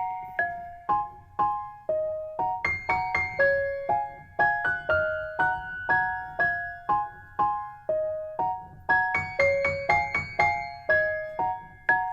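Background music: a light piano melody of short notes that die away, about two a second.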